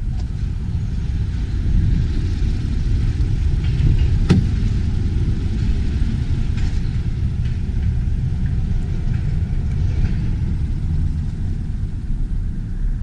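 Steady low vehicle rumble, with a single sharp click about four seconds in.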